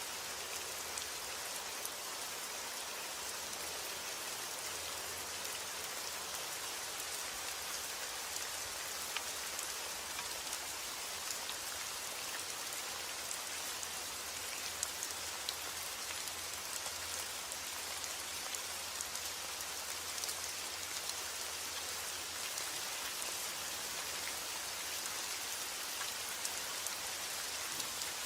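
Steady rain falling, an even hiss of many drops with fine individual drop patters scattered through it.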